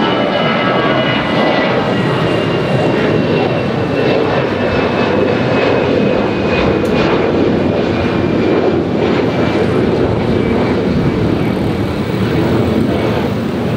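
Jet airliner engines, a loud steady rush with a high whine that slowly falls in pitch.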